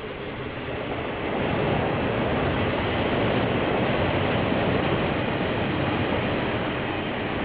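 KiwiRail freight train led by several diesel locomotives passing on the track, growing louder over the first couple of seconds, then a steady rumble and rail noise. Heard through a security camera's microphone, with the highs cut off.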